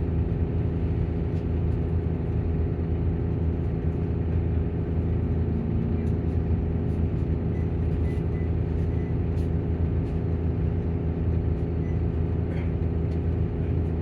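Volvo coach engine and cooling fan running, a steady low drone with a constant hum that holds level throughout.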